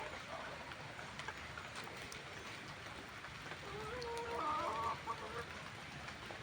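A chicken calling once, a wavering pitched call lasting about two seconds in the second half, over a steady background hiss.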